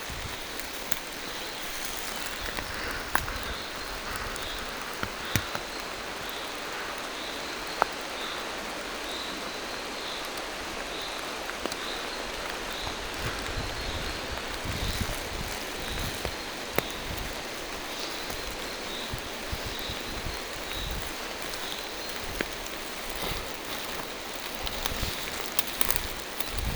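Steady rain falling on forest foliage, with scattered sharp taps of drops landing close by. A faint, distant bird repeats a short high note about one and a half times a second through most of it, stopping near the end.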